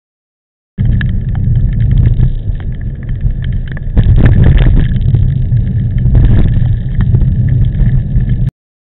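Heavy wind buffeting on the camera microphone of a moving bicycle in strong typhoon wind: a loud low rumble with scattered clicks, starting abruptly about a second in and cutting off abruptly near the end.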